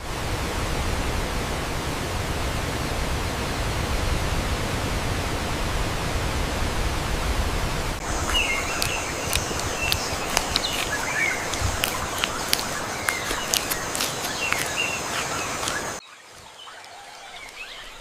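Outdoor nature ambience: a steady even rushing noise, with birds chirping over it from about halfway through alongside scattered sharp clicks. Near the end the noise drops away abruptly, leaving fainter chirps.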